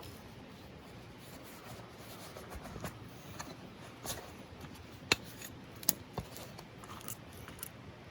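Knife carving a wooden kuksa cup: short, scattered scraping strokes with a few sharp clicks, the loudest a little after the halfway point.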